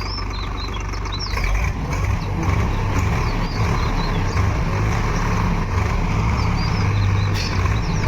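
Heavy machinery diesel engines, from a JCB backhoe loader and a tractor, running steadily while soil is loaded; the engine gets a little louder about a second and a half in. Small birds chirp high above it throughout.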